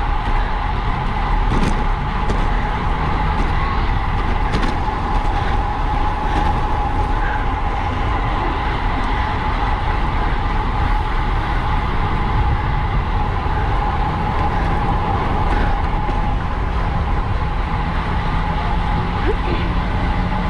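Wind rushing over the microphone of a racing bicycle at speed: a loud, steady roar heaviest in the low end, with a faint steady whine and a few light ticks from the bike.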